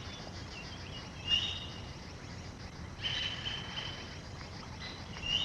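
Maroon oriole calls: three short, flat-pitched calls, the middle one the longest, over a steady forest background hiss.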